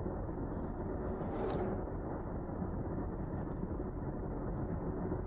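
Steady road and engine noise of a car being driven, with a brief higher hiss about a second and a half in.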